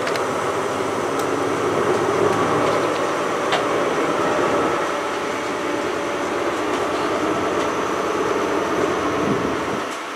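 Great Western Railway passenger train's coaches passing close by: a steady rush of wheel and rail noise, with a single sharp click about three and a half seconds in.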